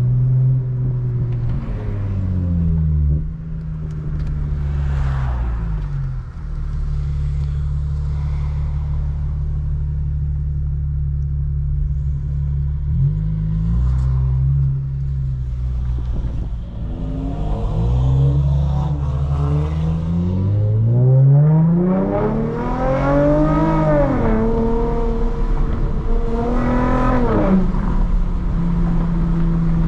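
Lexus IS350's 3.5-litre V6 through a Tsudo mid-pipe and muffler-delete axle-back, running at a steady cruise. In the second half it revs up and falls back twice, the pitch rising and dropping each time, before settling to a steady cruise again.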